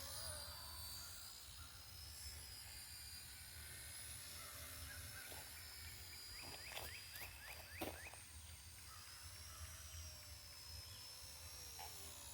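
Faint, steady high-pitched whine of an electric RC helicopter's motor and rotor, wavering slightly in pitch. About seven seconds in, a bird gives a quick run of short falling chirps.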